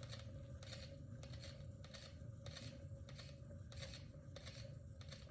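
Faint sound of a paint-pouring canvas spinner turning: a steady low hum with a soft whoosh repeating about twice a second as the canvas goes round.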